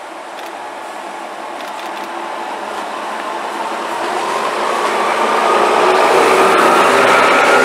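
Diesel locomotive and vintage passenger coaches passing close by, growing steadily louder, with a whine that rises in pitch from about halfway through.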